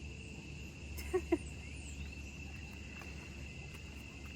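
Insects giving a steady, high, unbroken drone outdoors in tropical surroundings, with a low rumble under it. Two short pitched calls sound just after a second in.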